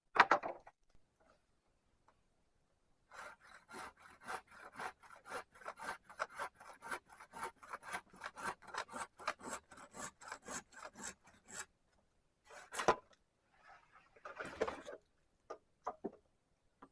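Hand saw cutting through wood in a fast, even run of strokes, about four a second, stopping about eleven and a half seconds in, followed by a few separate knocks and rustles.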